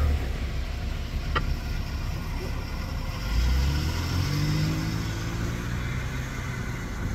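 Motor vehicle engine running with a low rumble, then accelerating with a rising pitch from about three and a half seconds in. A brief sharp chirp sounds about a second and a half in.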